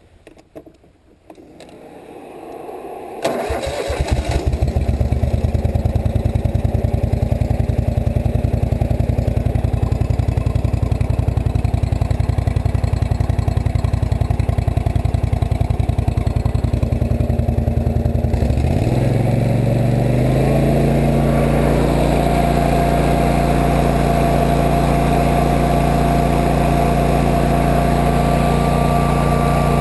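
Rebuilt Kohler CV745 24 HP fuel-injected V-twin mower engine starting about three seconds in and catching quickly, then running steadily at low speed. About 18 seconds in it speeds up and holds a higher steady speed, with a faint whine alongside.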